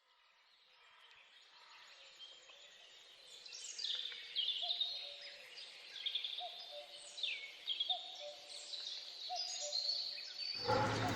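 Birdsong fading in after about a second of silence. Several birds give quick, high, falling chirps, and a lower short call repeats about once a second.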